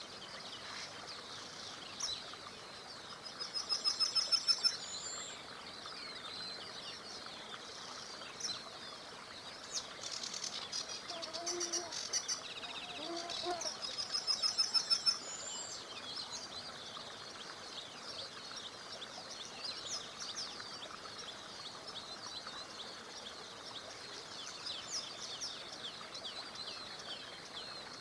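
A summer chorus of songbirds singing and chirping, with a loud rapid trill of evenly repeated notes that swells twice, about three and thirteen seconds in. A faint steady rush of river water lies beneath.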